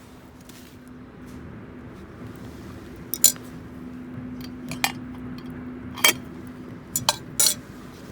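Sharp clinks and knocks of camp cooking gear being handled, about five separate strikes in the second half, over a steady faint hum.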